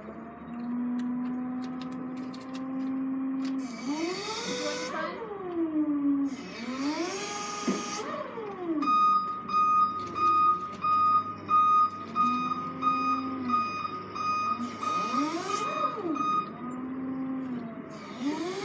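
Forklift working: its drive motor whines up and down as it moves, and its hydraulic pump hums steadily for a few seconds at a time. Short bursts of hiss come several times. From about halfway through, a warning beeper pulses about twice a second.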